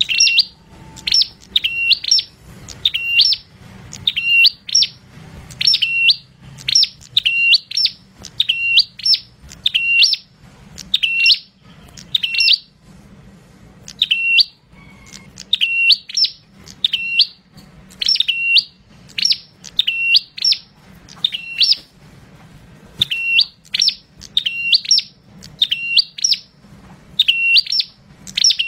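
Caged prenjak, a small chestnut-headed tailorbird-like songbird, calling loudly and incessantly: sharp, high, clipped notes repeated about one to two a second, each dipping and rising in pitch. There are a couple of short pauses.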